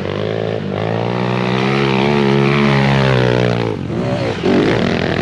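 Pit bike engine revving hard under load for about three seconds, a steady high drone that rises slightly in pitch then falls away, followed by a brief drop and more revving near the end.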